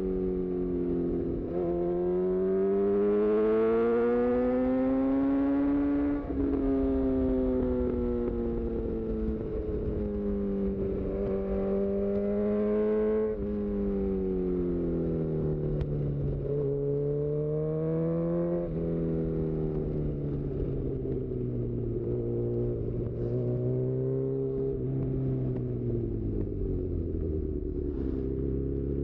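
2018 Honda CB1000R's inline-four engine, breathing through a full-system aftermarket exhaust, pulling under load. The revs climb and drop several times as it accelerates and shifts gear, then fall away steadily near the end as the bike slows.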